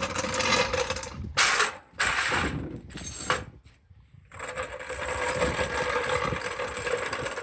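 Metal floor jack being dragged and rolled across the ground, its wheels and handle rattling and scraping, with a loud clatter about a second and a half in and a brief pause a little past the middle. A faint steady hum runs underneath.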